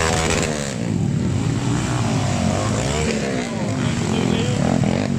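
Several Honda XRM underbone motorcycles racing in an open-cc motocross class, their small single-cylinder engines revving up and down as they pass, with the pitches overlapping continuously.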